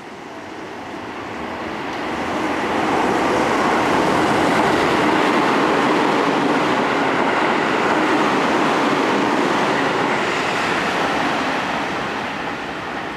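Seibu 30000 series electric train running along a station platform: the noise of its wheels on the rails swells over the first few seconds, stays loud for several seconds as the cars go by, then fades.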